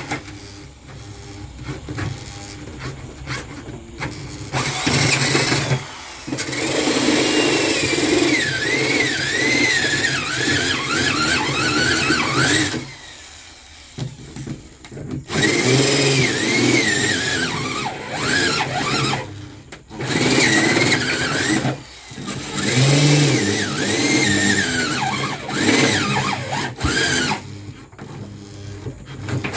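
Power drill running in repeated bursts of several seconds with short pauses, its bit widening a hole in a freezer's wall and giving off a wavering squeal as it cuts.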